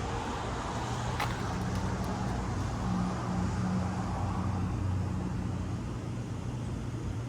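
A motor vehicle's engine running steadily over street traffic noise, with a single short click about a second in.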